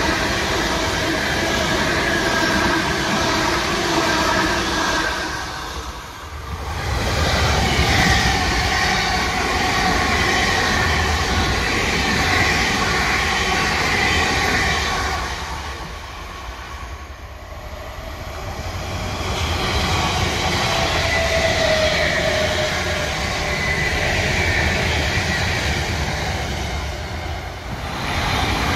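South Western Railway electric multiple-unit passenger trains passing close by: a steady rumble of wheels on the rails with several high steady tones over it. The sound drops away briefly about six seconds in and again around seventeen seconds in, then builds up again.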